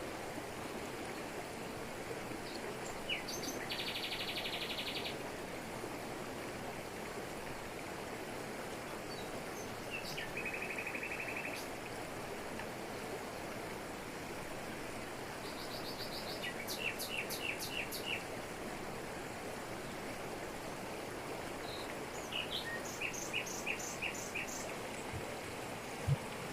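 Waterfall rushing steadily over rocks, with tropical forest birds calling over it: a fast trill about four seconds in, a lower trill around ten seconds, and runs of repeated chirps later on.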